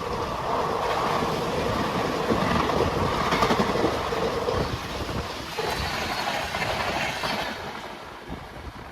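Train running past on the track, its wheels clicking over the rail joints, the sound falling away near the end as it moves off.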